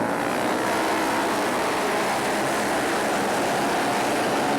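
A pack of flat-track racing motorcycles running at race speed, their engines blending into a steady, loud drone of many overlapping tones.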